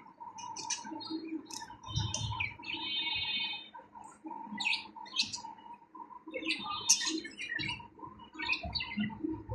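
Budgerigars chirping and chattering in many short high calls, with one longer buzzy call about three seconds in.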